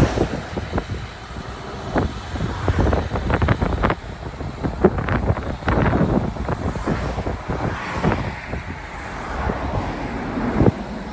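Traffic noise with wind on the microphone, broken by many irregular knocks and clicks.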